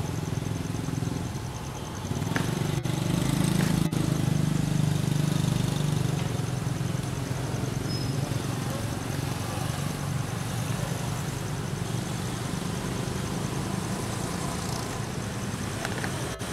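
A motor vehicle's engine running with a steady low hum. It grows louder about two seconds in, then slowly eases off.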